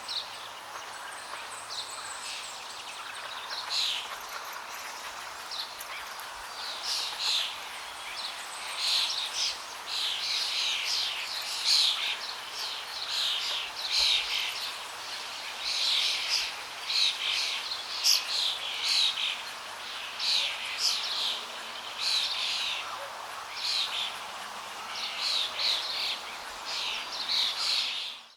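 Songbirds chirping in many short, quickly repeated downward-sweeping calls over a steady rush of flowing water. The sound cuts off abruptly at the end.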